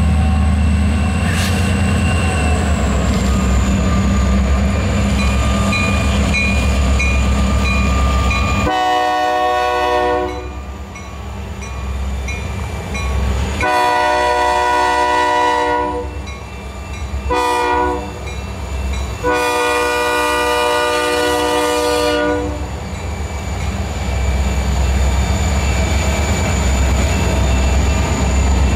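Diesel freight locomotives pulling a loaded grain train rumble heavily. Then the lead locomotive's air horn sounds four blasts, long, long, short, long: the standard signal for a grade crossing. The heavy engine rumble returns after the horn.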